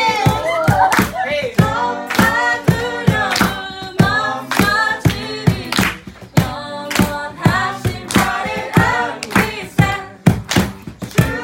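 A small group singing a praise song together over a steady beat of sharp percussive hits.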